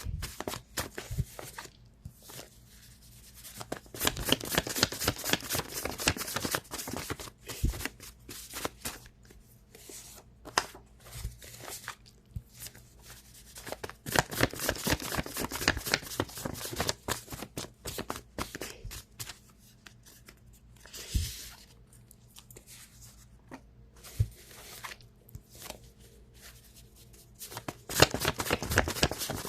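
Tarot cards being shuffled by hand: bursts of rapid flicking and riffling a few seconds in, around the middle and near the end, with scattered single card taps and quieter handling between.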